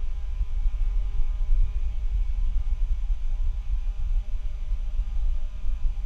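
Noise from a faulty microphone: a loud, rapidly jittering low rumble with a faint steady hum above it.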